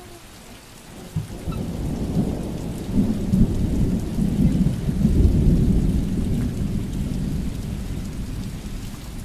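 Rolling thunder: a long low rumble that builds about a second in, is loudest in the middle and fades away near the end, over steady rain.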